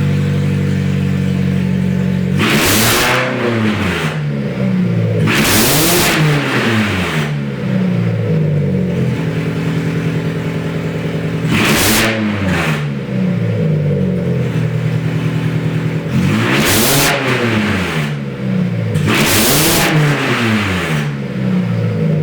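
Mazda 6 engine running open on new headers with the catalytic converter removed and pretty much no exhaust system, so it sounds loud. It idles steadily and is revved five times, each rev climbing quickly and then falling back to idle.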